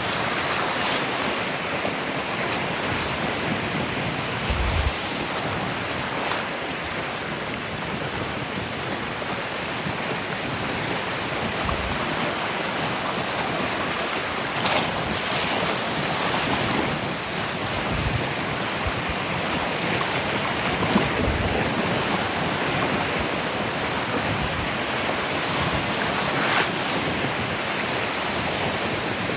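Ocean surf washing steadily onto a sandy beach, with wind now and then buffeting the microphone in short low thumps.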